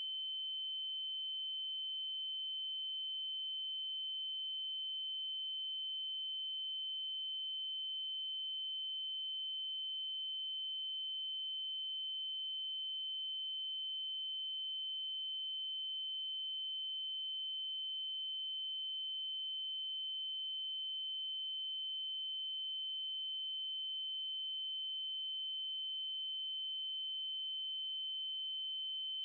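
Steady electronic test tone: a 3072 Hz triangle wave held at one constant high pitch.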